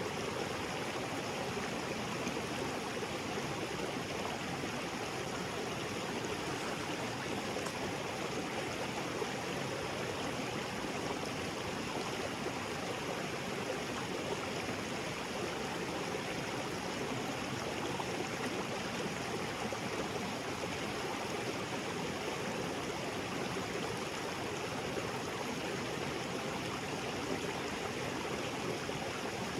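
Small waterfall splashing into a rocky creek, a steady, unbroken rush of water.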